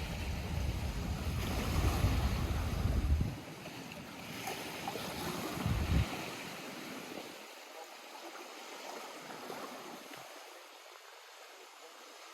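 Small lake waves lapping against the shore. Wind buffets the microphone for about the first three seconds and again briefly around six seconds in, then the water goes on more softly.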